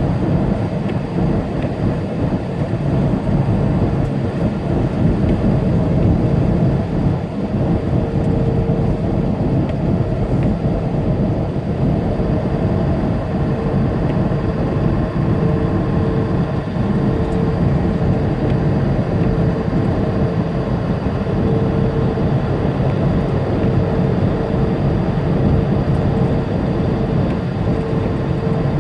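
Semi truck at highway speed, heard from inside the cab: a steady low drone of diesel engine and tyre noise, with a faint higher whine that comes and goes.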